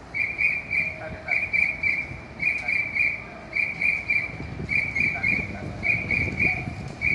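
Electronic warning beeper sounding quick groups of three high beeps, about one group a second, over a low rumble.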